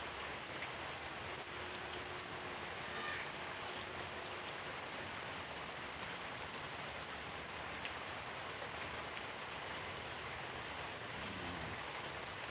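Steady tropical rain hiss under a continuous high-pitched insect drone that stutters briefly about two-thirds of the way through, with a few faint short animal calls.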